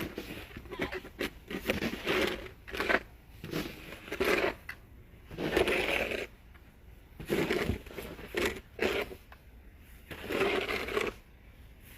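Snow being shoveled: a series of separate crunching, scraping strokes through packed snow, about one every second and a half.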